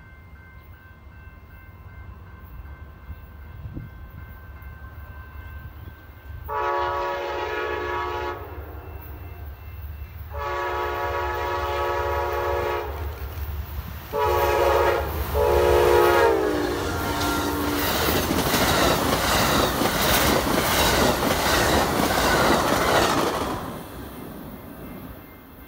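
Approaching locomotive sounds its air horn in the grade-crossing pattern: two long blasts, a short one and a final long one that sags in pitch as it ends. The train then passes with loud rattling and clickety-clack of wheels over the rail joints, fading near the end.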